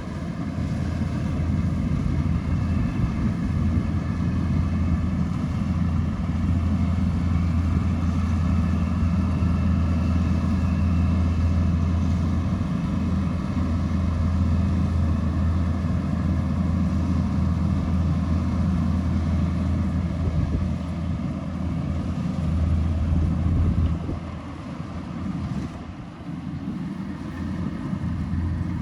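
Kubota DC-105X rice combine harvester running with a steady low engine drone that drops in level near the end.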